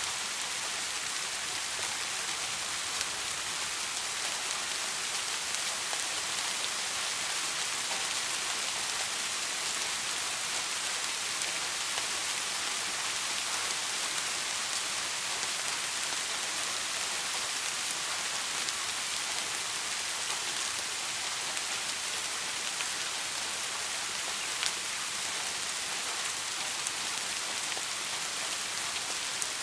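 Soft rain falling steadily: an even hiss with scattered individual drop ticks and no thunder.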